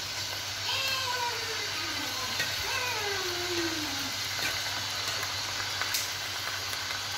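Bok choy and garlic stir-frying in a pan: a steady sizzle with the occasional scrape of a spatula. Over it, two drawn-out cries that fall in pitch, about a second in and again near three seconds.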